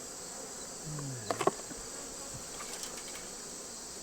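Steady high-pitched chorus of late-summer insects. About a second and a half in there is a short low hum-like murmur and a couple of sharp knocks.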